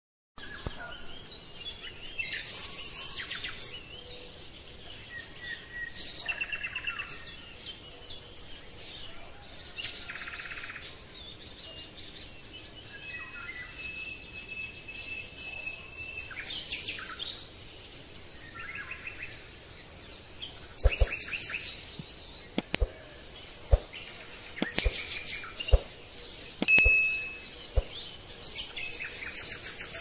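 Birds chirping and trilling, with short whistled notes and rapid trills throughout. In the last third, a string of sharp taps and knocks.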